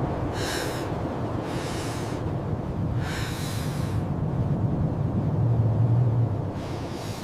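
Blizzard wind rushing steadily with a low rumble that swells about five to six seconds in. Four short breathy hissing bursts break through it.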